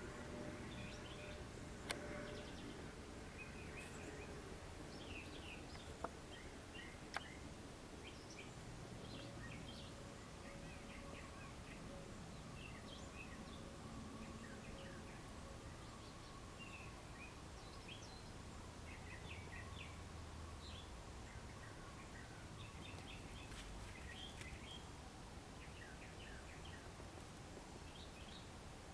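Faint chirping from small birds: many short high notes scattered throughout, over a steady background noise, with a few sharp clicks in the first seven seconds.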